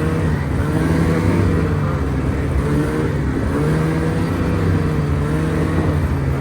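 Engine of an off-road vehicle under way, its pitch rising and falling every second or so as the throttle is opened and eased off.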